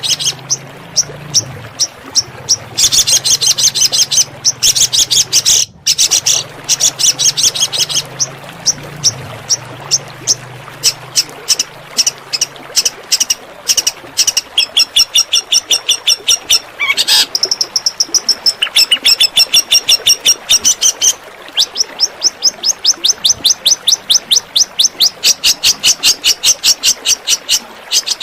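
Long-tailed shrike (cendet) singing in rapid volleys of sharp, high repeated notes, the 'tembakan' (shots) style of song. The volleys are broken by short pauses, with a faster unbroken run in the last quarter. A faint low hum runs under the first half.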